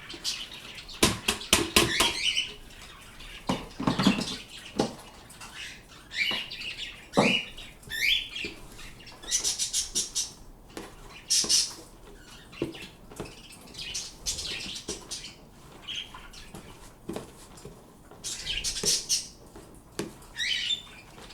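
Pet birds calling with scattered squawks and chirps, some rising in pitch, and a quick run of sharp clicks or knocks about a second in.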